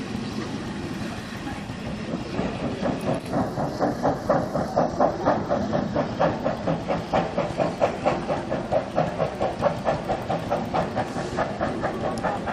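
Steam locomotive chuffing at a slow, even beat of about three exhausts a second, starting a couple of seconds in over a steady hiss.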